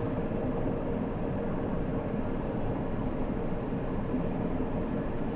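Ford ambulance-conversion truck's engine pulling steadily in third gear up a long grade, with road noise: a steady, even hum.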